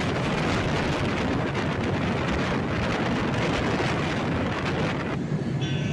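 Steady rush of wind and running noise from a moving train, with wind on the microphone. About five seconds in it cuts off abruptly to a quieter low hum with a few short high tones.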